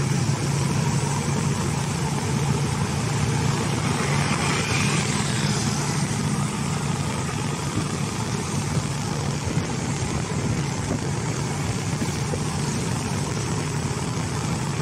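A road vehicle's engine running steadily, a low hum under a constant hiss of road and traffic noise.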